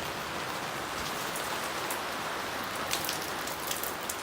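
Heavy torrential rain falling steadily, a dense even hiss of drops, with a few sharper ticks about three seconds in.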